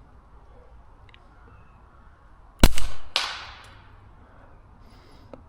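A single suppressed shot from a Taurus TX22 .22 LR pistol fitted with a suppressor, a sharp crack about two and a half seconds in. About half a second later comes a fainter second sound that trails off over about a second.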